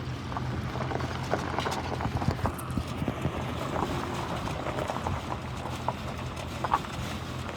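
Ford F-350 Super Duty's Power Stroke diesel engine running steadily as the truck moves slowly, with scattered irregular clicks and crackles over the engine sound.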